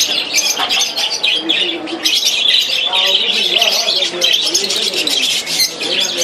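Many caged birds chirping continuously in a dense chatter, with lower calls that rise and fall in pitch mixed in.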